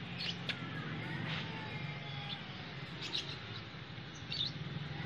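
Birds chirping in short, scattered high calls, some gliding down in pitch, over a steady low hum.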